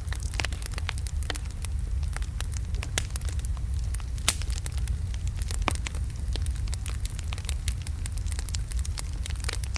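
Wood logs burning in a fireplace: frequent irregular crackles and pops over a steady low rumble of the flames, with a few sharper pops about four and six seconds in.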